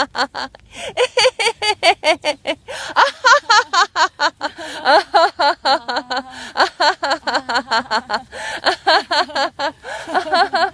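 Women laughing loudly and without pause in quick, repeated ha-ha pulses: deliberate laughter-yoga laughing, done as an exercise without jokes.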